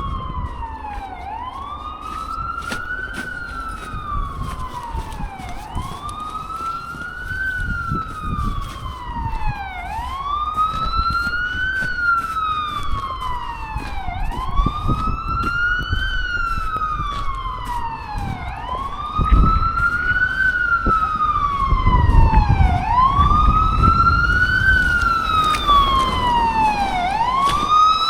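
Emergency vehicle siren in wail mode, slowly rising and falling in pitch about once every four and a half seconds, growing louder as it comes closer.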